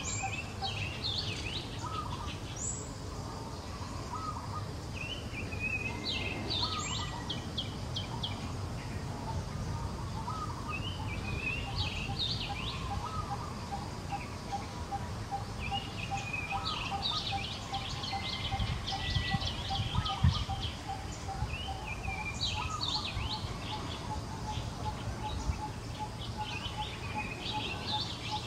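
Wild birds singing: one repeats a short, fast chirping phrase every few seconds, while another source keeps up a steady series of evenly spaced low piping notes, over low background noise.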